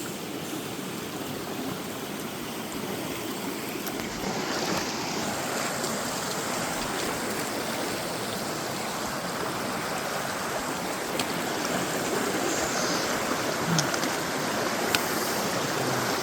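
Creek water rushing steadily over rocks at a stream crossing, growing a little louder about four seconds in.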